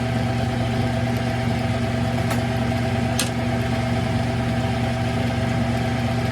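Smithy CB-1220XL combination lathe running steadily through a slow facing cut: a constant motor and gear hum, with two brief faint ticks about two and three seconds in.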